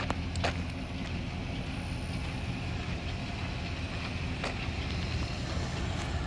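Ford E350 van's 5.4-litre V8 engine idling steadily, with a couple of short sharp clicks, one about half a second in and one about four and a half seconds in.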